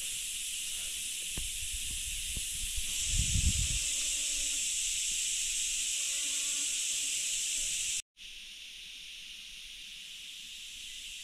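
Steady high-pitched chirring of insects in a grassy meadow. A brief low thump comes about three seconds in, and after a short gap just past eight seconds the chirring goes on more quietly.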